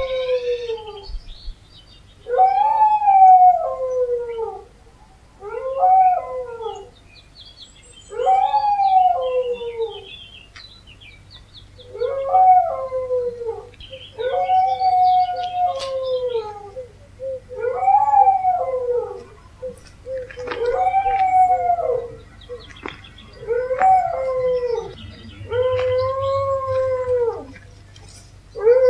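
Dogs howling: a series of about ten long howls, each sliding down in pitch, with short pauses between them.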